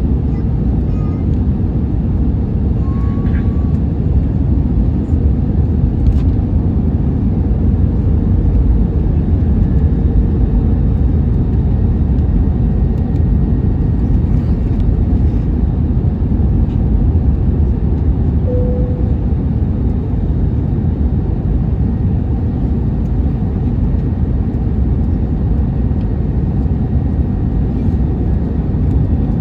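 Steady, even low rumble of an Airbus A321neo airliner's engine and cabin noise, heard from inside the cabin.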